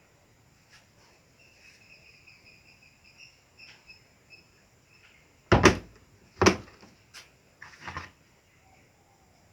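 Four sharp hard-plastic clicks and knocks from handling the repaired electric kettle, the first two the loudest, coming in the second half.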